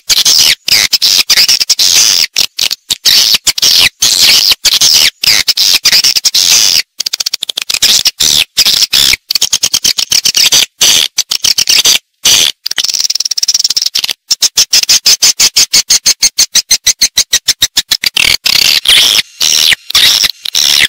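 Swiftlet lure-call recording: dense, high-pitched chittering and clicking chirps of swiftlets in quick trains, with a fast, evenly spaced run of chirps about two-thirds of the way through.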